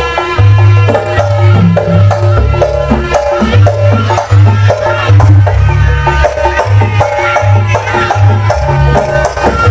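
Live Javanese jaranan ensemble music: quick hand-drum and percussion strokes with pitched melodic notes over a deep, loud sustained bass.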